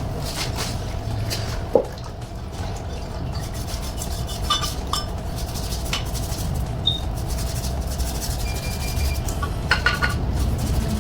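Scattered metallic clinks and taps of hand tools and alternator parts being handled on a workbench, over a steady low background hum.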